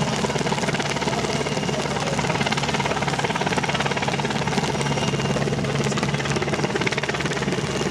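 Search-and-rescue helicopter flying, its rotor chopping rapidly and steadily over a continuous turbine and rotor noise.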